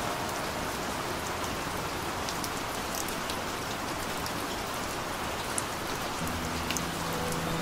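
Steady rain falling on a surface, an even hiss with scattered sharp drop ticks. About six seconds in, music with low held notes starts under the rain.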